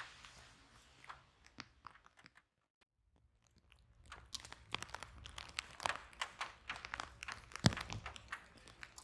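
Wood fire in a fireplace crackling, with irregular sharp pops and snaps. The crackling dies almost to silence a few seconds in, then picks up again more densely, with one loud pop about three-quarters of the way through.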